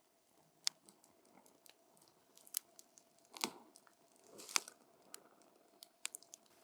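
Wood campfire crackling up close: irregular sharp pops and snaps over a soft, steady background. The loudest snaps come about three and a half and four and a half seconds in.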